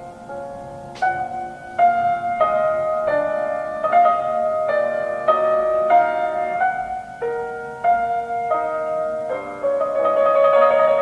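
Classical solo piano music: a slow, gentle melody of single notes over chords.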